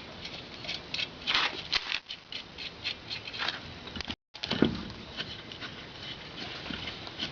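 Irregular light metallic clicks and scrapes of wheel nuts being handled and threaded onto the wheel studs.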